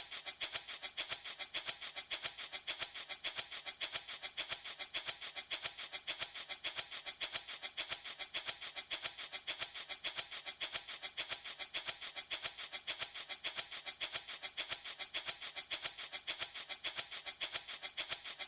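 Handmade wooden baby rattle shaken steadily in an even rhythm, about five bright rattling strokes a second.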